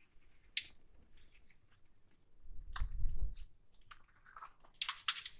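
Soft wet squelching and light clicks of raw burger mince being mixed and squeezed by hand, with salt, pepper and water worked in. A brief low rumble comes about three seconds in.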